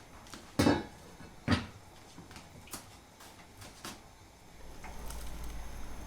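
Two sharp knocks a little under a second apart and a few lighter clicks, like things being handled and set down in a kitchen, then a low steady rumble from near the end.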